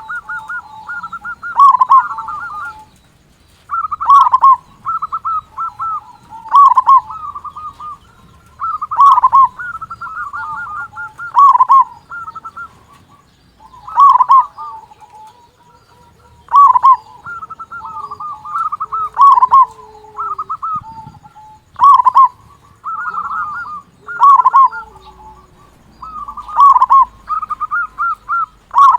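Zebra dove (local Indonesian perkutut) singing its cooing song: a short phrase of quick, rolling coos, repeated about every two to three seconds.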